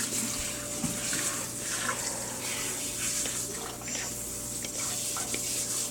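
Water running steadily from a tap, with small splashes here and there.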